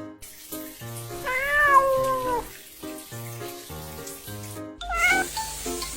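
Cat meowing over light background music with a steady beat: one long drawn-out meow about a second in and a short one near the end.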